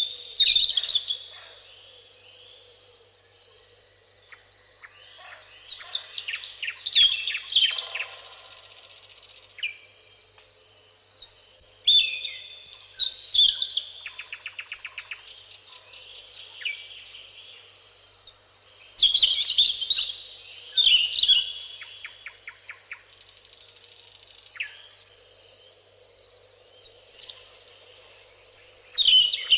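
Several songbirds singing in a meadow: a loud, varied whistled song phrase comes back about every six or seven seconds, with fast dry trills and a couple of short buzzy notes in between.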